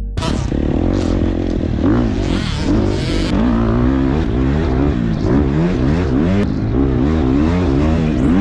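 Dirt bike engine revving up and down constantly as it is ridden along a trail, with short bursts of noise between about two and three seconds in.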